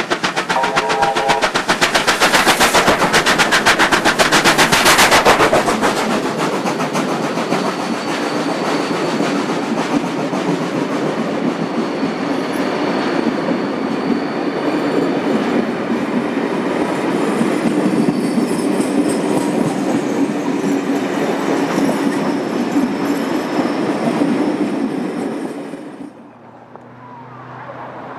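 Two 38 class steam locomotives double-heading a passenger train past at speed: a chime whistle sounds briefly at the start, then rapid exhaust beats are loudest over the first few seconds, followed by the steady rumble and clickety-clack of the carriages rolling by. The sound cuts off sharply near the end, leaving a much quieter background.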